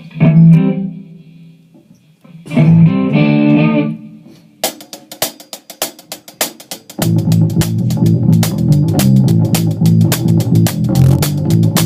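Rock band intro. Two ringing guitar chords come first. A steady drum beat of even cymbal ticks starts about halfway through, and bass and the full band join a couple of seconds later.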